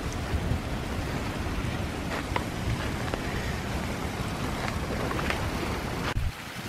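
Wind buffeting the microphone, a flickering low rumble over a steady rushing noise, with a few faint clicks; the sound drops away briefly near the end.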